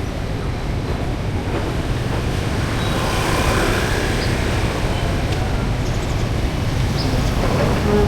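Steady street traffic noise: a continuous low rumble of passing vehicles, a little louder from about three seconds in.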